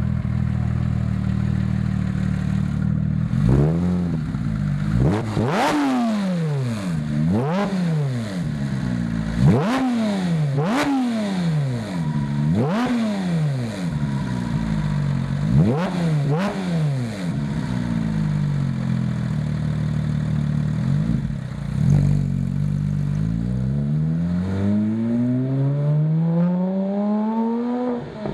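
Porsche 997 GT3 RS 3.6-litre flat-six through a Fabspeed Maxflo sport exhaust (sport headers with 200-cell cats, side muffler bypass pipes, Maxflo mufflers) idling, then revved in a series of sharp throttle blips that rise and fall quickly. It settles back to idle, then accelerates away in a long, steady climb in revs, with a gear change near the end.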